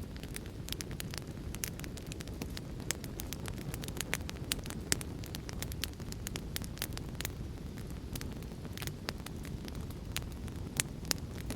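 Wood fire crackling in a fireplace, with irregular sharp snaps and pops over a steady low rumble of heavy rain.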